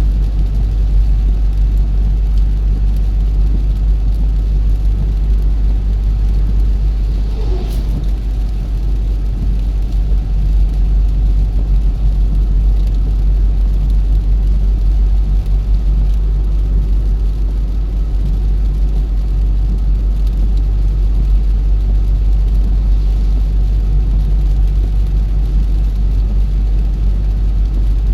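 A car driving at steady speed: an even, deep rumble of engine and road noise. About eight seconds in, a faint brief sound falls in pitch.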